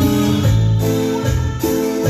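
A band playing, with keyboard chords and a bass line that change about every half second.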